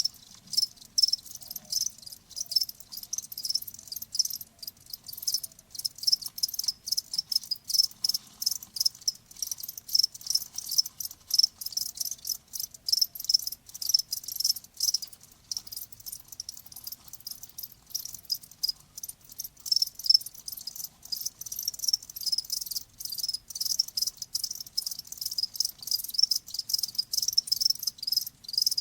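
Crickets chirping: a dense, high-pitched chirping in rapid, even pulses that keeps up without a break.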